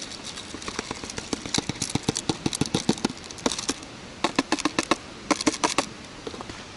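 A run of quick, irregular sharp clicks and knocks in several bursts, from hands working with camp cooking gear.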